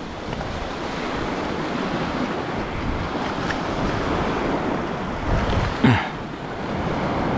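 Sea waves washing against the shore, with wind buffeting the microphone; a brief short sound about six seconds in.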